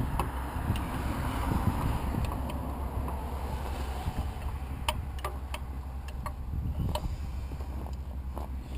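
Steady low rumble like wind on the microphone, with scattered sharp clicks and knocks of parts and tools being handled.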